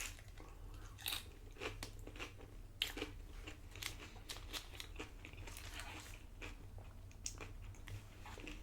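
A person chewing a mouthful of loaded tortilla-chip nachos, the chips crunching in irregular small crackles.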